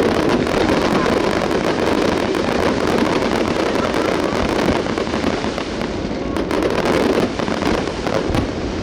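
Aerial fireworks going off in a continuous barrage of crackles and pops, thickest about three seconds in and again near seven seconds.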